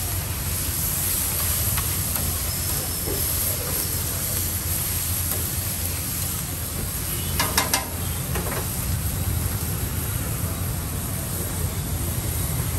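Chopped onions, tomatoes and chillies sizzling on a flat griddle as they are stirred with a steel spatula, with a steady hiss over a low hum. A quick run of sharp metal clacks from the spatula against the griddle comes a little past the middle.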